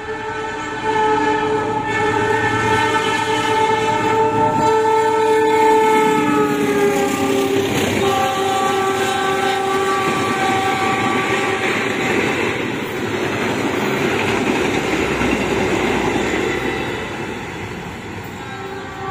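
KAI diesel locomotive sounding its multi-note horn as it approaches at speed; the chord drops in pitch as the locomotive passes and carries on at the lower pitch for a couple of seconds. Then the rumble and clatter of the passenger carriages rushing past, fading near the end.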